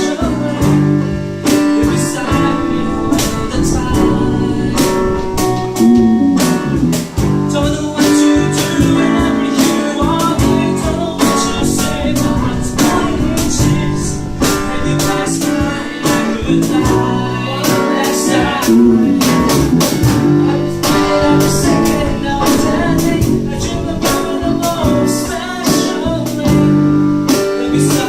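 A band playing a song: singing over guitar, with a steady beat of hits.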